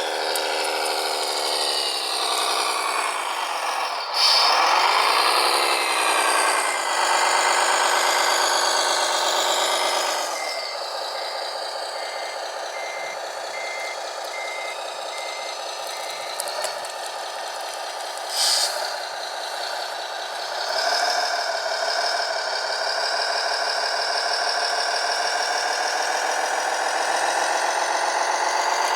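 Electric motors and gearboxes of remote-control construction models whining, rising and falling in pitch as they work. A reversing beeper sounds a steady series of beeps for about ten seconds from around five seconds in, with a couple of short knocks later on.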